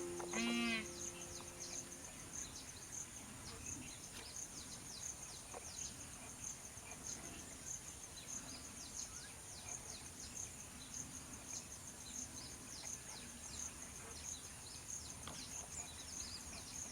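Wild outdoor ambience: a steady high-pitched insect drone with many short, quick chirps that fall in pitch, likely small birds calling. The tail of a piece of music fades out in the first second or so.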